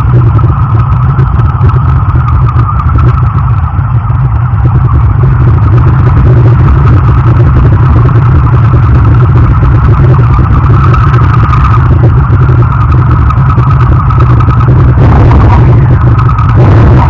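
2006 Harley-Davidson VRSCD Night Rod's liquid-cooled Revolution V-twin running steadily through its exhaust: a loud, even low rumble.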